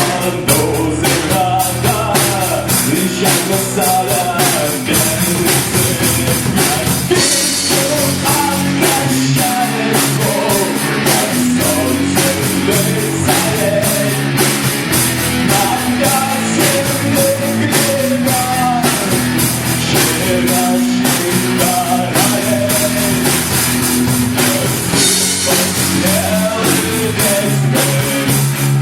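A rock band playing live: a drum kit keeping a fast, even beat under guitar.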